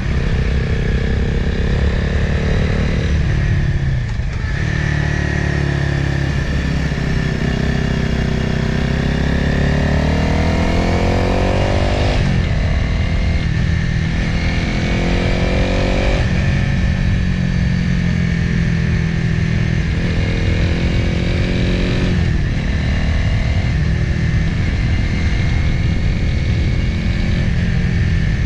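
Motorcycle engine heard from on board while riding, its revs rising and falling: a long climb in pitch through one gear, with about four sudden drops where the rider shifts or rolls off the throttle.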